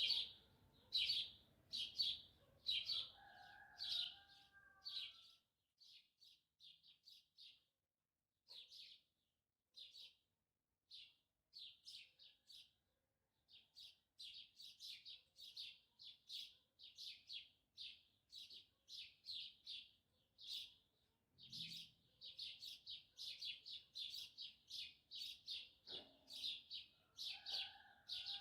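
Small songbird chirping over and over, short high chirps one or two a second, thinning out for a few seconds in the middle. A rooster crows faintly twice, a few seconds in and again near the end.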